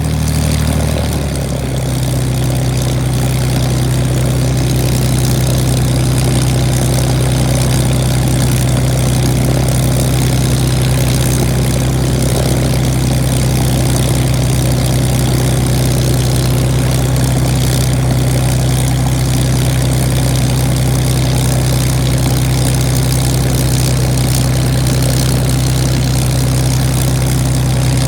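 Supermarine Spitfire's V12 piston engine running with the propeller turning on a ground run. Its note shifts briefly about a second in, then holds steady.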